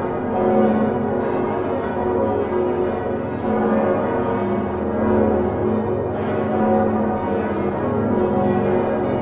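Full peal of large swinging church bells in the Utrecht Dom tower, including the great bronze bells cast by Geert van Wou in 1505, ringing all together. Many deep and higher bell strikes overlap continuously, their hums blending into a sustained wash of tone.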